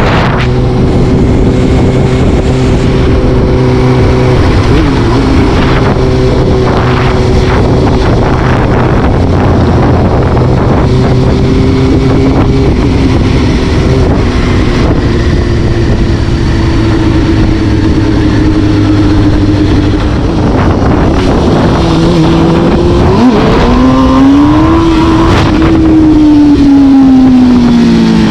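A vehicle's engine running steadily at cruising speed under a heavy wind rush, its pitch stepping a few times, then climbing about 23 seconds in as it speeds up and sliding slowly back down near the end.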